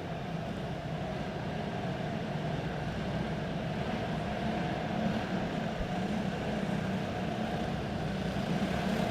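Quarter midget race cars' small engines running steadily at low speed just after the checkered flag.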